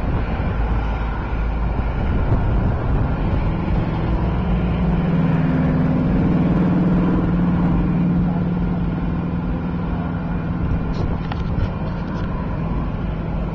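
A car running, heard from inside it: a steady rumble of engine and road or wind noise, with an engine hum that swells in the middle and eases off again.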